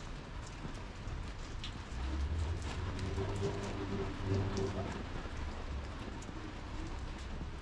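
Rain falling on wet paving and stall awnings: a steady hiss with scattered drop ticks. A voice is heard about two seconds in, under a low rumble that eases off after about five seconds.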